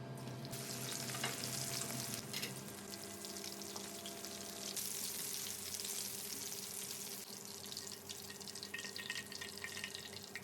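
Sausage and prawn rolls deep-frying in hot oil: a steady sizzling and crackling.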